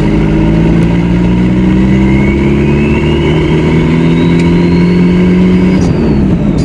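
Volkswagen 1.6-litre turbo-diesel engine pulling under load, its turbo whine climbing steadily in pitch as it spools up. Near the end the throttle comes off: the engine note drops and the turbo whine falls away.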